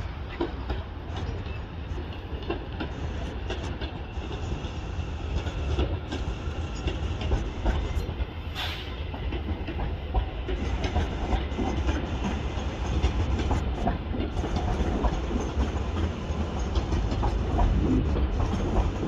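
A train running along the track through the station, a steady low rumble with the wheels clicking over the rail joints, growing louder in the second half.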